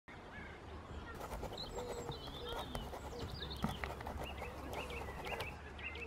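Birds chirping and singing in short repeated calls and trills over a steady low rumble, with a few scattered clicks.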